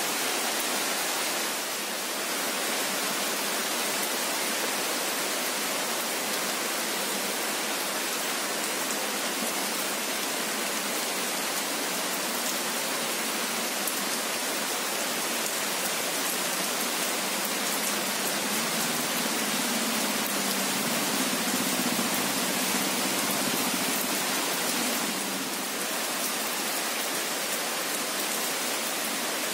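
Steady rain falling on tree foliage: an even, unbroken hiss.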